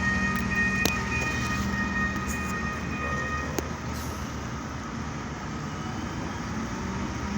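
Heavy diesel machinery running steadily in the rain, with a steady high whine that stops about halfway through and a few light clicks.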